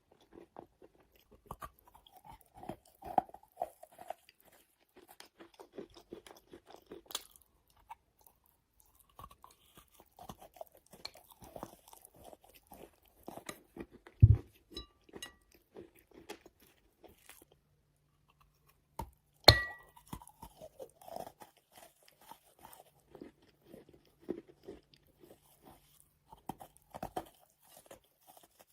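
Close-up crunching and chewing of wet chalk: soft, irregular crackles of the chalk breaking between the teeth. Two much louder sharp knocks stand out, one about halfway through and another a few seconds later that rings briefly.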